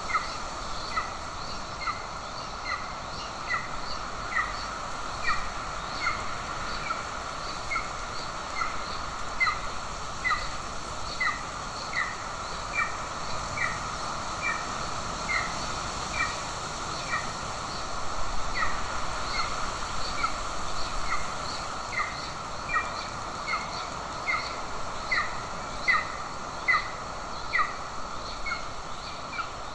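Golden eagles calling at the nest: a long, regular series of short, high calls, about two a second, some louder than others.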